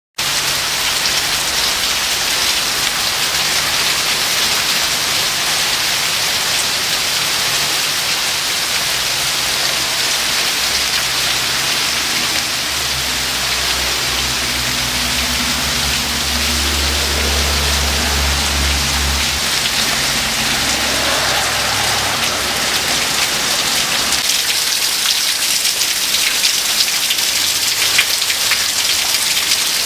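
Heavy rain and hail falling steadily: a dense hiss of drops hitting surfaces, with sharper ticks that grow more frequent near the end. A low rumble swells in the middle and fades out.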